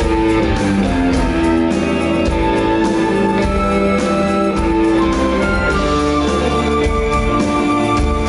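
A live rock band plays an instrumental passage: held melodic notes over a steady bass line, with drums keeping time.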